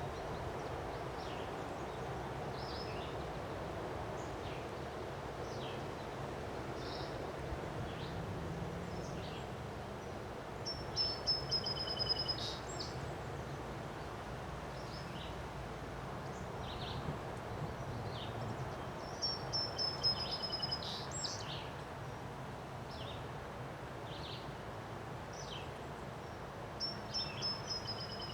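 Steady wind noise from a windstorm, with a songbird singing a short, fast series of high notes three times, about eight seconds apart, and scattered chirps in between.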